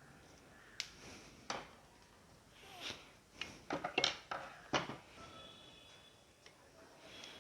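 Clicks, light knocks and short scrapes from a mixer-grinder's motor and tools being handled while it is dismantled, busiest a few seconds in.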